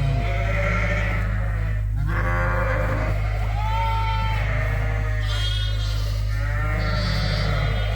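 Many ewes and lambs bleating over one another without pause, higher lamb calls mixed with deeper ewe calls, as mothers and lambs call to find each other. A steady low hum runs underneath.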